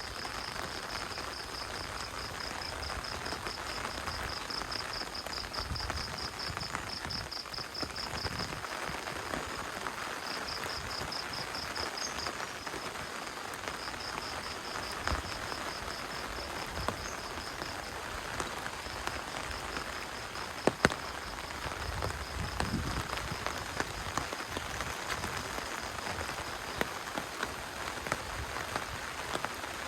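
Steady rain falling, an even hiss. Over it, a high, rapidly pulsing trill comes in stretches through the first two-thirds and then stops. A single sharp tap, the loudest sound, comes about two-thirds of the way in.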